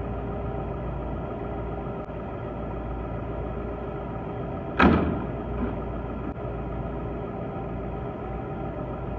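Excavator engine running steadily, with one sudden loud bang about five seconds in that rings out briefly.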